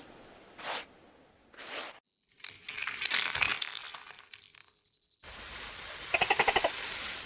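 A steady, high, fast-pulsing insect trill of the cricket kind sets in about two and a half seconds in, after two short soft hisses. A brief pitched call rises over it near the end.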